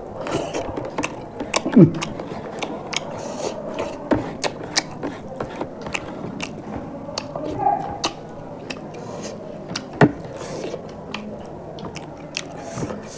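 Close-up eating sounds of two people eating rice and fish curry with their hands: wet chewing with many sharp lip-smacking clicks and a few short throaty sounds.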